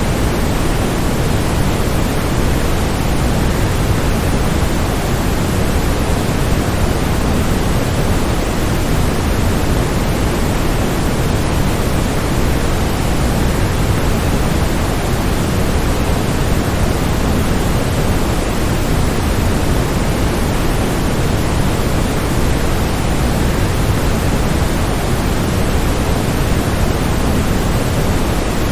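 Waterfall: a steady, unchanging rush of falling water, heaviest in the low end and thinner toward the top, with no separate splashes or breaks.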